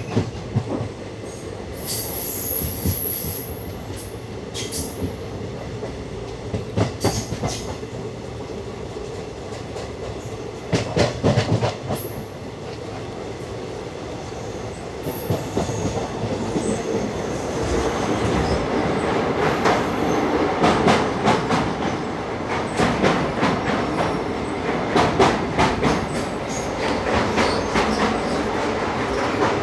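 Passenger express train running, heard from on board: a steady rumble with wheels clattering over rail joints and a brief high wheel squeal now and then. The clatter grows denser and louder over the second half.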